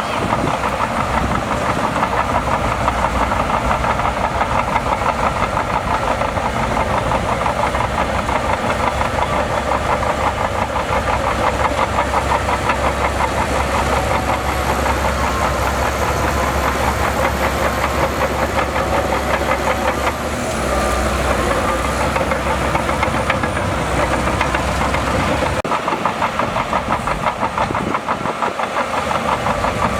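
Heavy diesel engine of earthmoving machinery running steadily with a fast, even firing beat; the deep rumble fades briefly a few seconds before the end.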